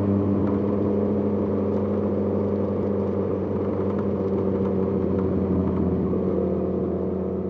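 Suzuki GSX-R1000 inline-four motorcycle engine running, holding a steady engine speed with little change in pitch.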